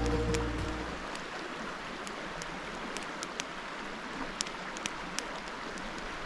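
Music fades out in the first second, leaving the steady rush of a running beck, with sharp crackles and pops from a small wood campfire scattered through it.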